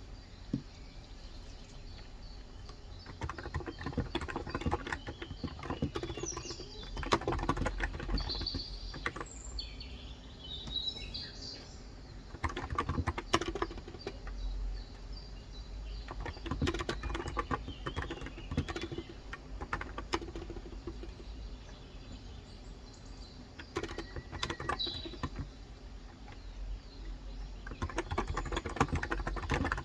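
Typing on a Cox Endeavour electro-capacitive (topre-style) 35 g tenkeyless keyboard, in bursts of keystrokes with short pauses between them. Birds chirp in the background, mostly around the middle and again near the end.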